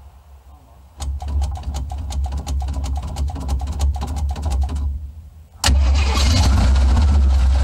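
1977 Jeep Cherokee Chief engine on a cold start: the starter cranks it with an even, rapid chugging for about four seconds, then after a short pause the engine catches and runs loudly.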